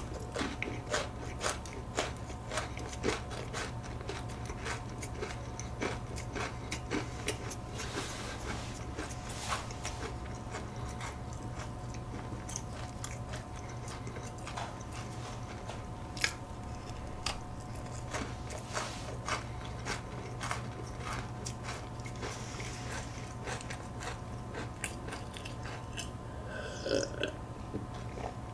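A crisp iced chocolate cookie being bitten and chewed close to the microphone: a run of sharp crackles, thickest in the first dozen seconds and sparser after. Near the end comes a sip of milk.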